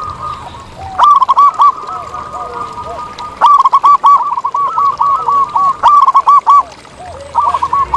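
Zebra doves (perkutut) calling: loud runs of rapid, arched cooing notes in three bursts, about a second in, from the middle for about three seconds, and again near the end, with fainter lower cooing from another dove behind.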